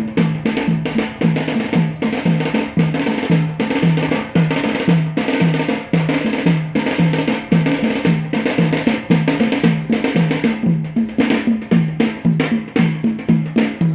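Drums playing a steady, driving bara' dance rhythm: low, pitched drum strokes about two to three a second, with sharper, quicker strikes filling in between.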